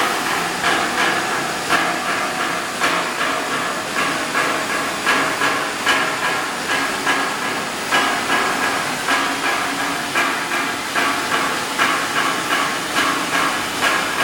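Multi-spindle CNC wood engraving machine running: a steady hiss with a faint high tone, and a rhythmic rasp that swells almost twice a second as the cutters work the wood.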